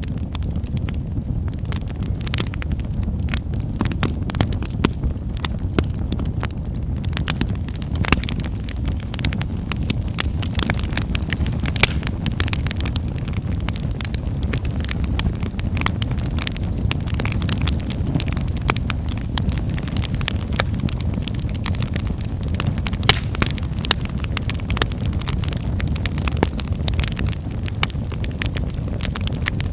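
Wood fire in a fireplace crackling: many sharp, irregular pops and snaps over a steady low rumble of the burning flames.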